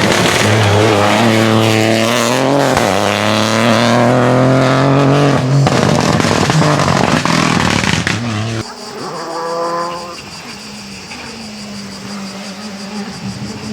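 Rally car engine revving hard at full throttle close by, its pitch shifting through gear changes. About two-thirds of the way in the sound drops suddenly to a fainter rally car engine accelerating, then running more steadily.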